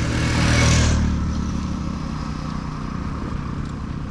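A motor vehicle passing close by: a rush of engine and road noise loudest in the first second, then its engine sound slowly fading away.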